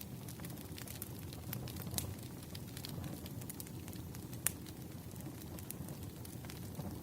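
Firewood burning: a low steady rumble of flames with scattered sharp pops and snaps, the loudest about four and a half seconds in.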